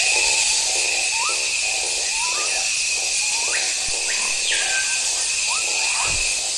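Rainforest night-chorus ambience: a steady, high-pitched insect drone and hiss, with short upward-sliding animal calls repeating about every half second and one longer falling call near the middle.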